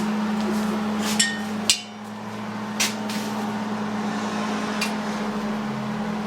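A few sharp metallic clinks and knocks of hand tools on metal, spaced a second or two apart, over a steady motor hum.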